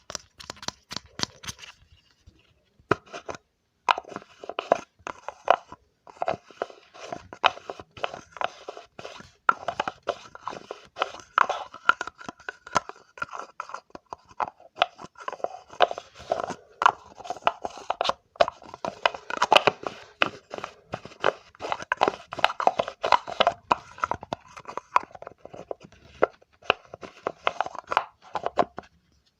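Close-miked ASMR triggers: dense, irregular crackling and scratching, pausing briefly about two seconds in.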